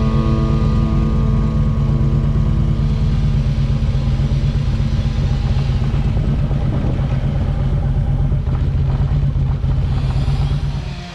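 Harley-Davidson motorcycle's V-twin engine running under way, a steady low rumble of exhaust pulses that dies down near the end.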